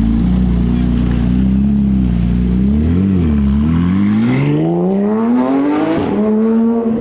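Car engine running loud with a steady deep note, a short blip of revs about three seconds in, then revving up steadily over a few seconds and holding at a higher pitch near the end.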